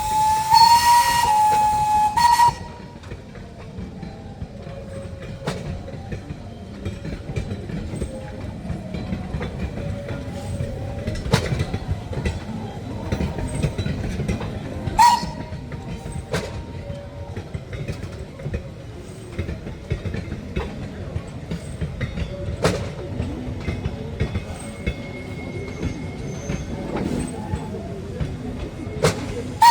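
A train whistle sounds for about two seconds, then a departing train rolls along with a low rumble and wheels clicking and knocking over the rail joints. A short whistle blast comes again at the very end.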